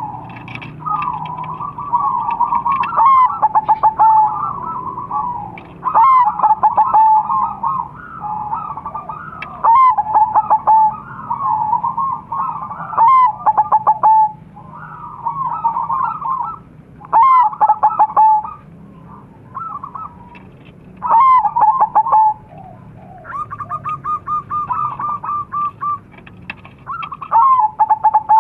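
Crossbred zebra doves (perkutut) cooing: phrases of quick staccato notes running into a rolling coo, repeated every few seconds, with a quieter bird answering in between.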